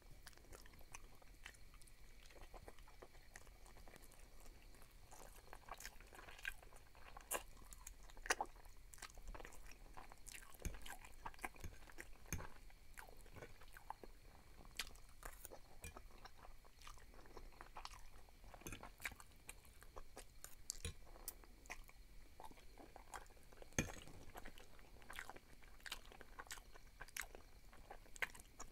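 Faint, close-up chewing and wet mouth clicks of someone eating thick fettuccine in tomato sauce. Short clicks are scattered throughout, with a few sharper ones about 8 and 24 seconds in.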